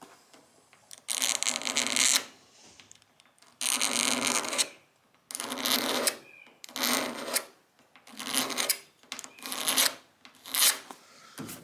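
About seven hand strokes scraping across the hardened clear coat of a car's painted quarter panel, each a rough rasp with short pauses between, to cut down a paint run. The first two strokes are the longest.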